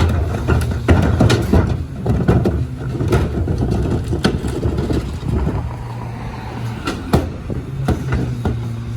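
Compressed-natural-gas Crane Carrier rear-loader garbage truck engine running steadily, with scattered sharp knocks and clanks throughout.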